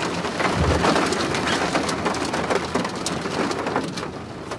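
Steady rain falling, a dense patter of many individual drops striking close by, with one brief low thump about half a second in. It softens near the end.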